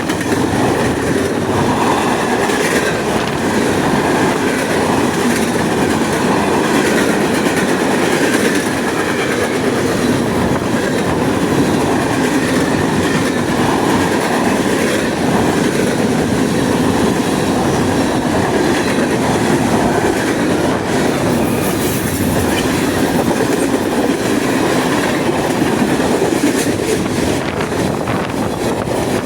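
CN freight train's cars rolling past at speed, a loud steady rumble and rattle of steel wheels running on the rails.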